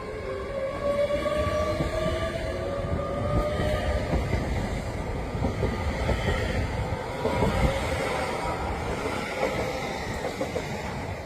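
A passing train: a whine from its drive slowly rises in pitch for the first few seconds over a steady rumble of wheels on the track, with scattered clicks from the rails.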